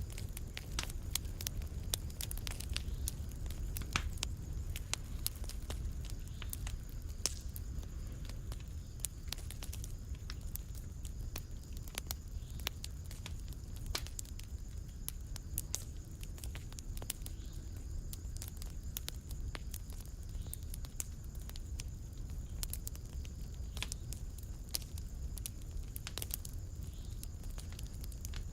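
Wood fire crackling in a fireplace: many small sharp pops and snaps at irregular intervals over a steady low rumble of the flames.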